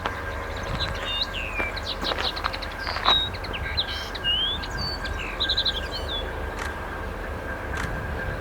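A songbird singing a run of short chirps and quick trills, over a steady low outdoor rumble.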